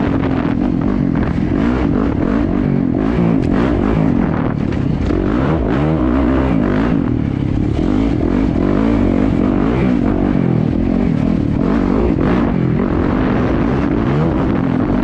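Yamaha YZ450FX dirt bike's four-stroke single-cylinder engine running hard as it is ridden over sand whoops, its pitch rising and falling continually with the throttle.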